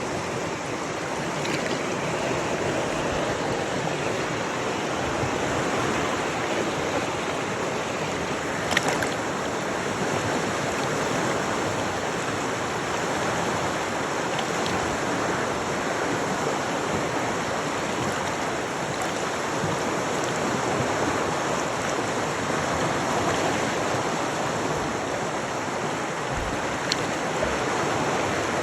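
Flowing river current: a steady rush of running water, with one brief sharp click about nine seconds in.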